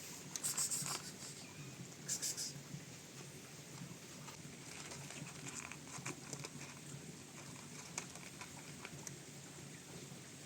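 Cats crunching dry cat food: a run of small irregular clicks, with two louder short noisy bursts in the first few seconds, over a steady patter of rain.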